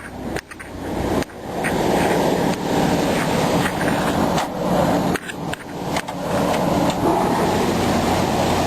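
1987 Ford F-350's 460 big-block V8 running just after a cold start, having sat all winter; the engine purrs, with a few brief drops in level.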